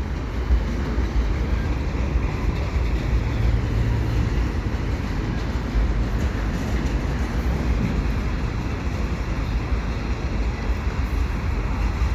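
Freight cars of a passing freight train rolling by, mostly empty hopper cars: a steady, unbroken rumble of steel wheels on the rails.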